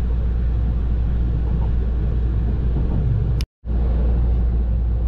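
Steady low rumble of a passenger train running, heard from inside the carriage. The sound drops out for a split second about three and a half seconds in, then the same rumble carries on.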